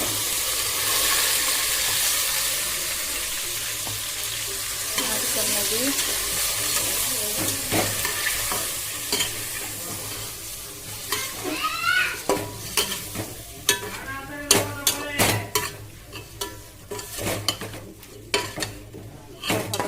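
Chicken pieces sizzling and frying as they go into hot oil in a pan, a dense hiss that slowly dies down over the first half. From about halfway on, a spatula knocks and scrapes against the pan as the chicken is stirred.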